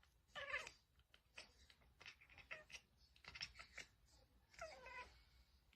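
Near silence with a few faint clicks and two faint, short sounds that change in pitch, one about half a second in and one near the end.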